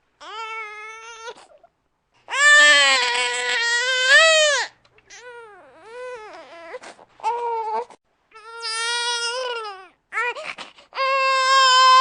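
Baby crying in a string of wails, each one to two seconds long, with short breaths between; the longest and loudest wail comes about two to five seconds in.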